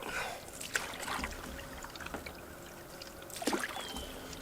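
Canoe paddle strokes: water swishing and splashing off the paddle several times, with dripping between strokes.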